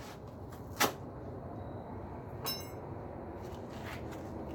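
Hands working at a long cardboard shipping box to open it: a sharp click about a second in, then a shorter click with a brief ringing tone, and a few faint ticks, over a steady low background hum.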